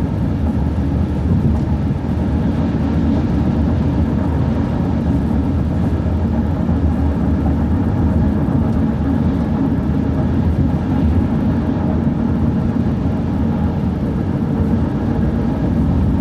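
Bus engine and road noise while cruising at speed: a steady low rumble with no let-up.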